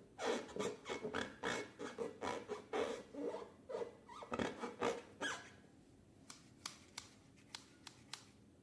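Slime being worked by hand: an irregular run of short crackles and clicks for about five seconds, then a few separate sharp clicks.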